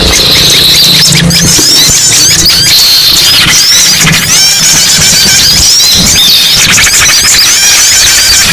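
A dense, noisy chorus of many small songbirds chirping and twittering at once, with short high chirps and sweeps overlapping without a break. It is a lure call played to draw small birds in. A low hum runs under it at times.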